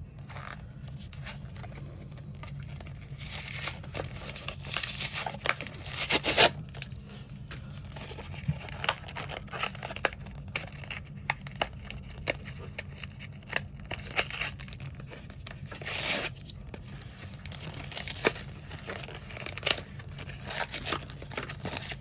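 Foil wrapper of a trading card pack being torn open and crinkled by hand, in irregular bursts of ripping and rustling with sharp crackles, under a steady low hum.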